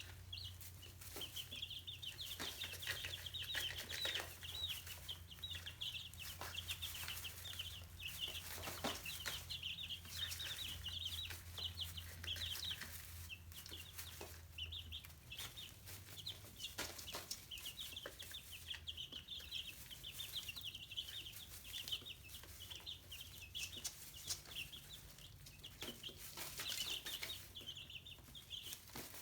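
A group of chicks peeping continuously in short, high chirps, with scattered clicks and taps among them. A low hum underneath stops about halfway through.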